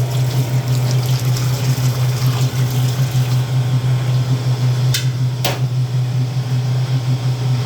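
Water running and splashing as the clogged drain filter of a Speed Queen wringer washer is rinsed clean, over a steady low hum. Two sharp clicks come about five seconds in.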